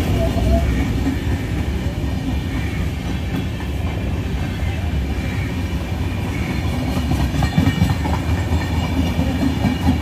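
Passenger coaches of an express train running past on the track, a steady loud rumble of wheels on rail, with a few sharper wheel clacks over rail joints in the last few seconds.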